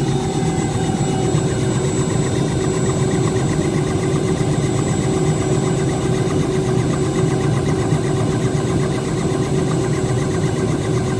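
Helicopter engine and rotor running steadily on the ground: a loud, continuous drone with a steady hum.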